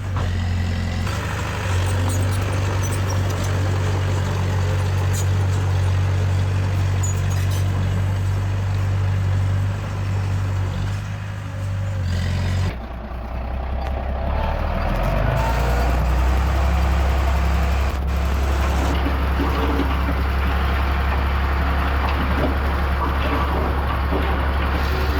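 Diesel engines of heavy earthmoving machinery running steadily under work. About halfway through, the engine note changes abruptly to a lower, deeper one.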